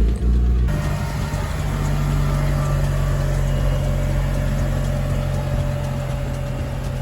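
Mitsubishi Lancer Evolution IX's turbocharged 2.0-litre four-cylinder engine idling just after starting: a brief unsteady moment, then a steady, even drone from about a second in.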